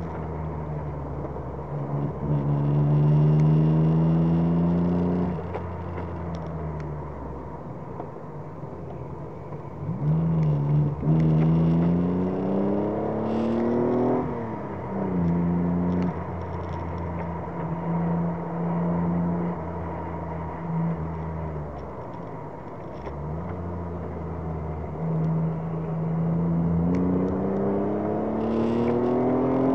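Alpine A310's PRV V6 engine, heard from inside the cabin. It climbs in pitch under throttle about two seconds in and again around ten seconds, each time dropping suddenly, holds a steady note through the middle, and climbs again near the end.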